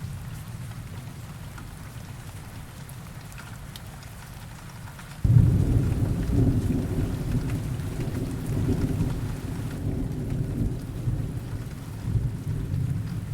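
Steady rain with a thunderstorm: about five seconds in, a thunder clap breaks in suddenly and rolls on as a long low rumble that swells and fades over the rest of the time.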